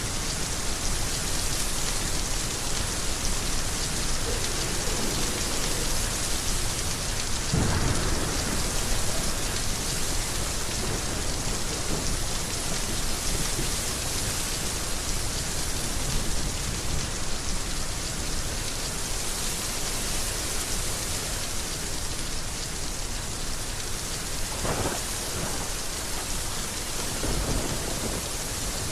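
Heavy rain falling steadily, with a few low rumbles of thunder, one about eight seconds in and more near the end.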